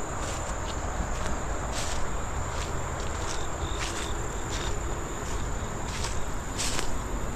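Insects calling in a steady, high-pitched chorus, with the crunch of footsteps along a dirt trail coming through as short irregular clicks.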